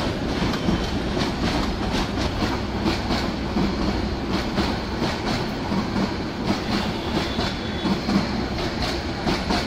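Subarna Express intercity passenger coaches rolling past, their wheels clicking over the rail joints in a steady clickety-clack over a continuous rumble.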